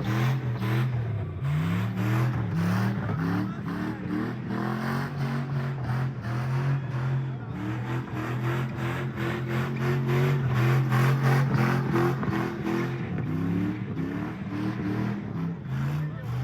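Car engine revving hard during a burnout, its pitch climbing and dropping again and again.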